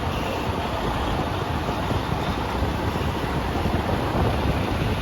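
Steady low rumble of a semi-truck running as it is manoeuvred, mixed with wind buffeting the microphone.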